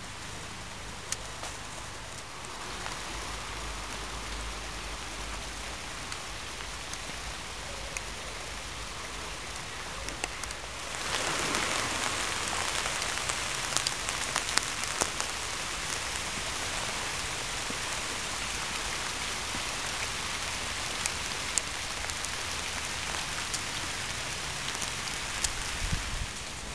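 Steady rain hissing on a wet road, with scattered sharp drop ticks; the rain grows louder about eleven seconds in.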